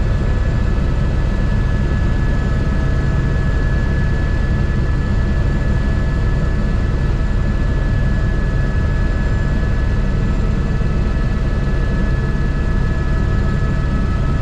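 Airbus H125 helicopter running steadily in flight, its single turbine engine giving a constant whine over the fast, even beat of the main rotor.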